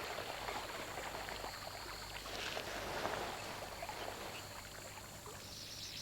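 Faint riverbank ambience: a soft, noisy rustle, with a high, steady trill coming in near the end.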